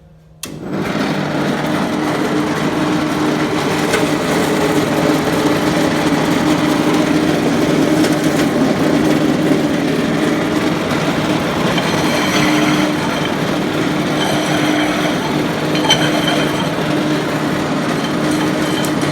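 Edco dual-disc concrete grinder with a 1.5 hp Century electric motor switched on about half a second in and running steadily with a steady hum and a grinding rush. It is fitted with grinding stones of uneven thickness.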